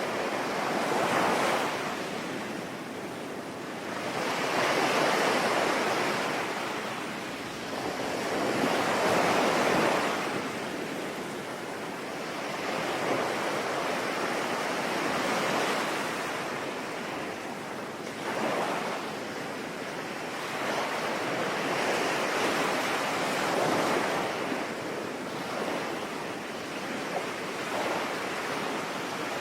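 Sea waves breaking and washing in, swelling and fading every three to five seconds, over a steady hiss of rain.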